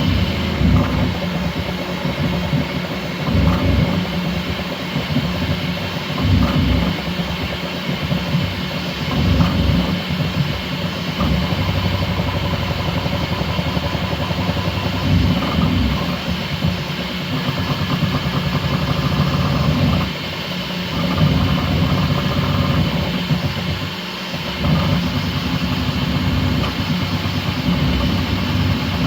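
Bambu Lab X1C 3D printer running a fast print: its stepper motors buzz and hum, shifting pitch every second or two as the print head changes moves, over a steady mechanical whir.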